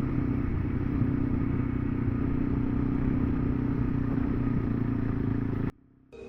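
KTM 390 Adventure's single-cylinder engine running at a steady pitch under way, with wind and road rumble, cutting off suddenly near the end.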